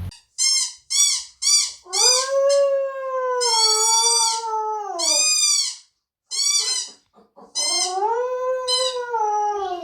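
A child's toy horn being blown: four short honks, then several long wavering toots that sag in pitch as the breath runs out.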